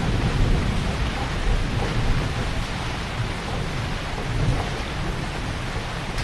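Heavy rain falling steadily, a dense even hiss, under a low rumble that is strongest in the first half and eases off around the middle.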